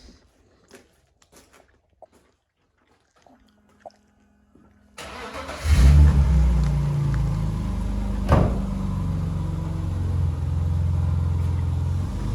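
A few faint clicks and knocks, then about five seconds in a car engine starts and keeps running with a steady deep rumble. There is one sharp crack a few seconds after it starts.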